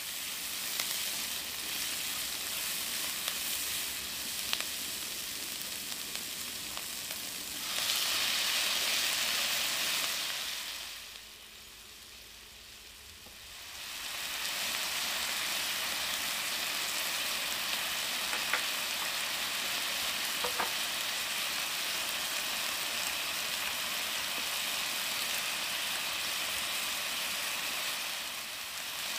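Diced onions and bell peppers sizzling in hot oil in a wok, stirred with a spatula; the sizzle dips to a quiet stretch around the middle, then returns steady.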